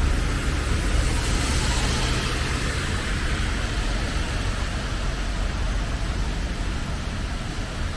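Road traffic on a wet road: steady hiss of tyres and rain over a low engine rumble, easing slightly toward the end.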